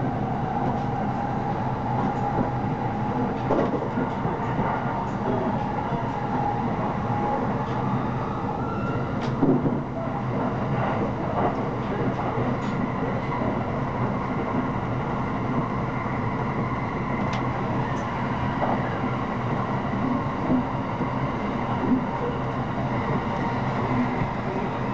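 Steady running noise of an electric commuter train at speed, heard inside the passenger car: a continuous rumble of wheels on rails with a few sharp clicks.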